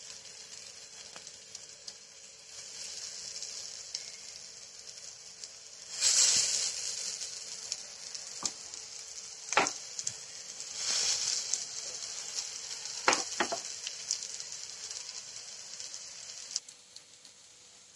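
Soya seekh kababs on wooden skewers sizzling as they shallow-fry in hot oil in a pan. The sizzle swells louder twice as more skewers are laid into the oil, with a few light clicks, and dies down near the end.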